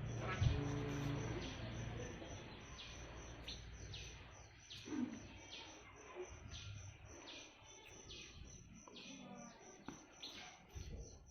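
Black-winged starling (jalak putih) calling: a string of short, high chirps repeated about once or twice a second.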